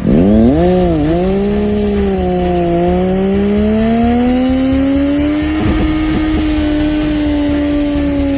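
Engine revved for a burnout: blipped twice, dropping back each time, then held at high revs that climb slowly and stay up, over a steady rush of noise.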